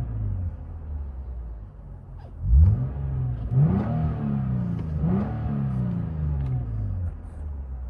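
2014 Lexus IS 250's 2.5-litre V6 revved three times, about a second apart, falling back to idle after each, with its Valvetronic Designs valved mufflers open and heard from inside the cabin. The first rev, about two and a half seconds in, is the loudest.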